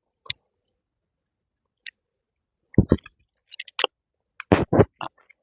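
Scattered short clicks and light knocks, a few early and more bunched in the second half.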